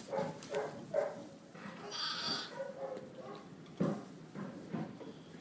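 Goats bleating: a few short calls, then a higher-pitched bleat about two seconds in, with some scattered knocks.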